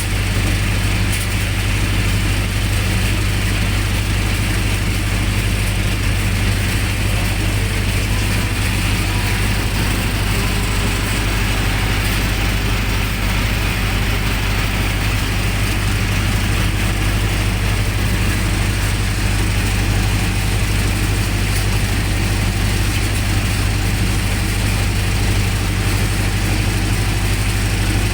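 Generator set engine running steadily at constant speed, a continuous low mechanical drone with a clattering edge.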